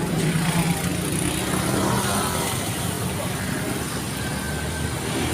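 A motor vehicle engine running with a steady low hum that fades after about two seconds, over continuous outdoor background noise.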